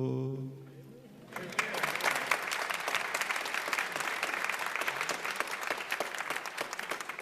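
The last held note of the hymn fades out, then about a second in a congregation breaks into steady applause that carries on.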